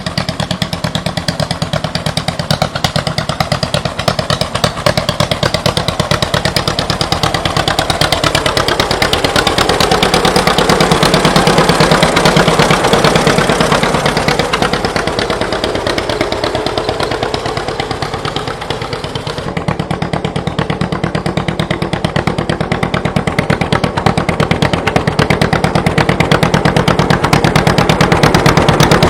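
1940 John Deere Model B's two-cylinder engine running after a flywheel hand start, its exhaust popping in quick, even beats. It gets louder toward the end.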